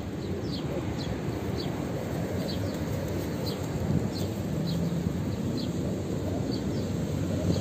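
A small bird's short, high chirps, repeated a little more than once a second and fading out near the end, over a steady low background rumble.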